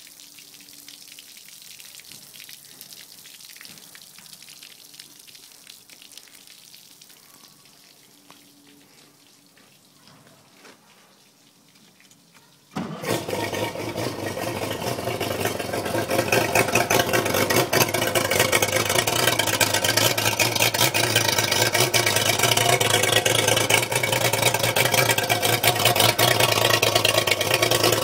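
Mercury V6 two-stroke outboard motor starting up: after a long stretch of faint hiss, the engine catches suddenly a little before halfway and runs steadily, getting louder a few seconds later and staying at a fast, even idle.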